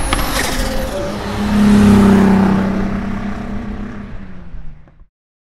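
A BMW E30 drift car's engine is held at high revs through a slide and passes by, loudest about two seconds in and then fading away. The sound cuts off suddenly near the end.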